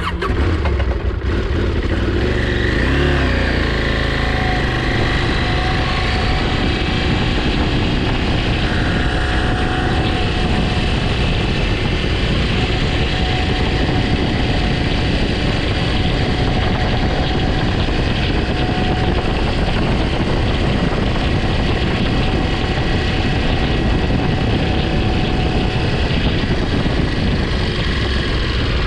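Motorcycle ridden off and accelerating: the engine pitch rises and shifts through the first few seconds, then the bike runs steadily at speed under a loud, even rush of noise.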